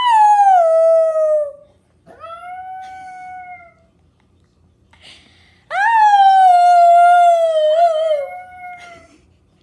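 A dog howling: three long howls, each starting high and sliding down to a held note. The second is quieter, and the last is the longest and wavers near its end.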